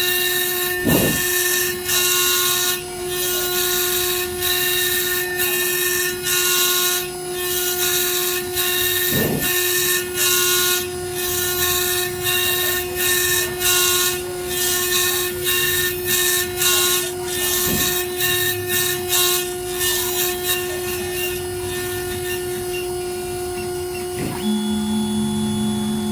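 Small CNC engraving spindle running with a steady whine, its fine 0.8 mm bit grinding down an iPhone X's A11 CPU chip in uneven, gritty bursts as it cuts. Near the end the cutting noise stops and a lower steady tone joins the whine.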